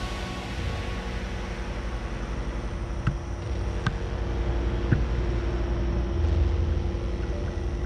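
Motorcycle engine running steadily, a low pulsing rumble with a few light clicks.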